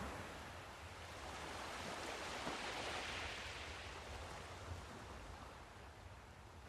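Sea surf: a wave breaking and washing up the shore, its hiss swelling to a peak in the middle and fading away near the end, over a steady low rumble.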